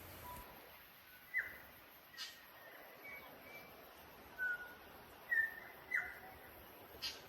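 A few short bird chirps, spread out one at a time over a faint background hiss, with a couple of light clicks in between.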